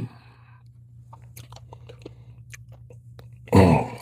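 A person chewing, with small wet mouth clicks. Under it a steady low hum, and a short vocal sound about three and a half seconds in.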